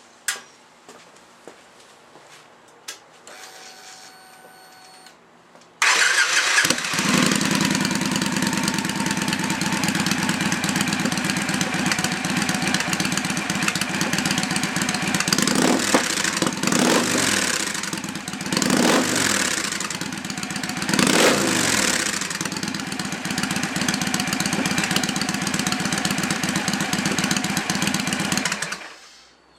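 2009 Victory Kingpin's V-twin engine starting through newly fitted Victory swept exhaust pipes, with the mufflers off. It catches suddenly about six seconds in, runs with several quick throttle blips, and is shut off near the end. Before it starts there are a few clicks and a short faint whine.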